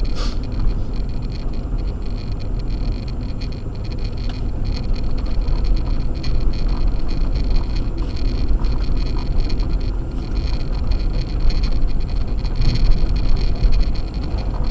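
Acura MDX driving on a snowy road on Sumitomo Ice Edge winter tires: a steady low rumble of tyre and engine noise. There is one short click just after the start.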